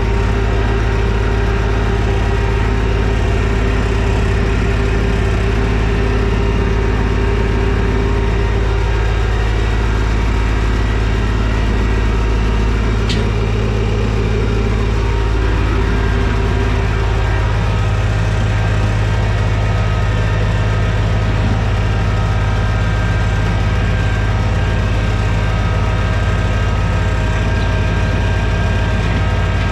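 TYM T224 subcompact tractor's diesel engine running steadily at a constant speed while it pulls a lowered box blade through the topsoil. There is one short click about thirteen seconds in.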